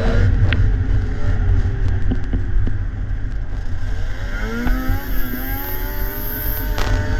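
Vintage two-stroke snowmobile engines running under a heavy low rumble, their pitch climbing and falling as the throttle changes, most clearly in the second half.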